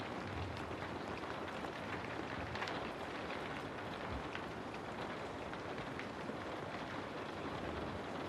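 Steady rain falling on a house, a dense even patter with scattered individual drops ticking.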